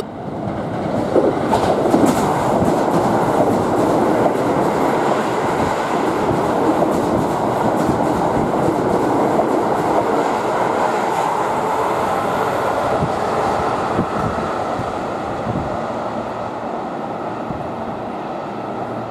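Electric commuter train running on rails, a steady rumble that builds over the first two seconds and eases slightly toward the end.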